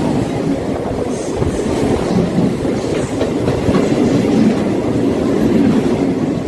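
Mumbai Western Railway suburban electric local train running past close alongside the platform: a loud, steady low rumble of its wheels on the rails.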